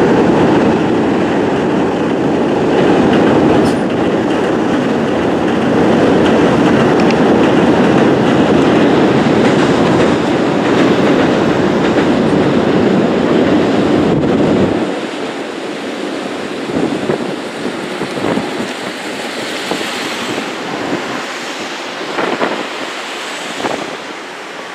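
Osaka Metro 66 series electric train running across a steel truss railway bridge: a loud, steady rumble with wheels clattering over the rail joints. About fifteen seconds in, the rumble drops away suddenly, leaving wind on the microphone and fainter scattered knocks.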